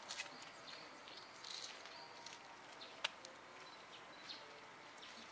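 Faint outdoor ambience with scattered high bird chirps and a thin high tone in the first two seconds, and a single sharp click about three seconds in.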